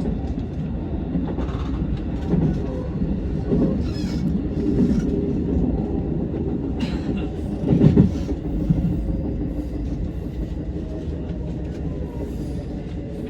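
Electric commuter train running on its rails, heard from inside near the front: a steady low rumble with scattered clicks of the wheels over rail joints, and a louder clunk about eight seconds in.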